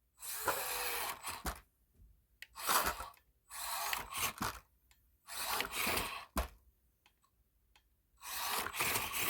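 Axial SCX24 1/24-scale RC crawler on monster truck tires driven in short throttle bursts: its electric motor and drivetrain whirring about five times, a second or so each, with quiet gaps between.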